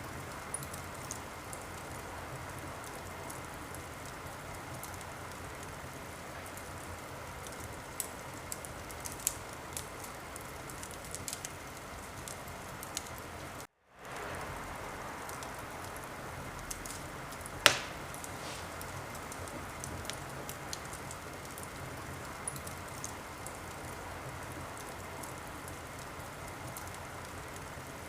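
Wood fire crackling in a fireplace: a steady hiss with scattered small pops, and one sharp, loud pop a little past halfway. The sound cuts out completely for a moment just before halfway, then comes back.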